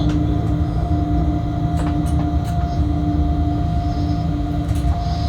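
Freight locomotive cab noise while running: a steady low rumble with a steady two-note hum on top, and a few faint clicks here and there.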